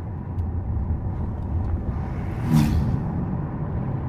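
Steady low road and engine rumble heard inside a Subaru Forester's cabin while driving, with one short louder noise about two and a half seconds in.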